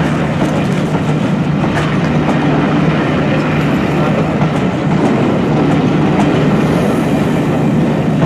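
Train running along the track: a steady low hum and rumble, with the light clatter of wheels over rail joints.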